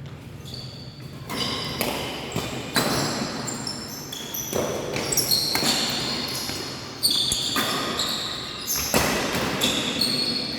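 Badminton rally in a reverberant hall: sharp racket-on-shuttlecock hits about every second or so, with short high-pitched squeaks of court shoes between them.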